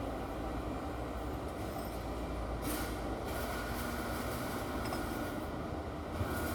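Isuzu 4BD1 turbo inline-four diesel engine running steadily after its cylinder head was refitted and tuned up.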